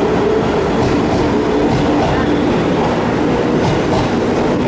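Stainless-steel electric commuter train running along the platform and away, a steady loud rumble of wheels on rail with a faint hum from the motors.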